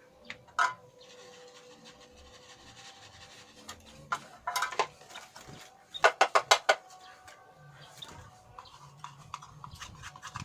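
Clatter from a birdcage and its feed cup being handled: scattered clicks and knocks, with a quick run of about seven sharp taps around six seconds in.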